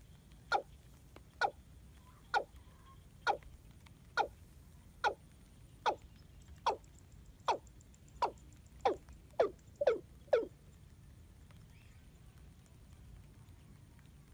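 A bird calling: a series of short, sharply falling notes, about one a second, coming faster near the end and then stopping about two-thirds of the way through.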